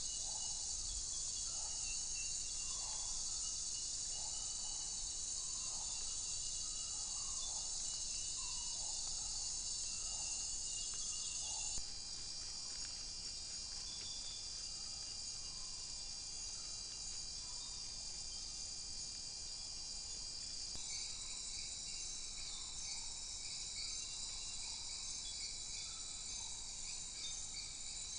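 Rainforest insect chorus of crickets or katydids: a steady, high-pitched shrilling. In the first part a lower note repeats about once a second. The mix of calls changes abruptly twice, about twelve and twenty-one seconds in.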